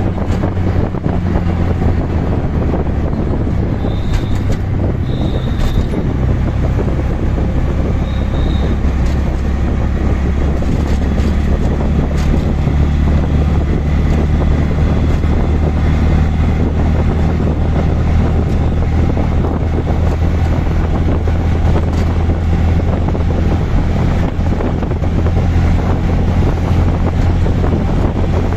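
Auto-rickshaw engine running steadily under way, with road noise and wind buffeting the microphone. A few short, high-pitched beeps sound about four to six seconds in and again around eight seconds in.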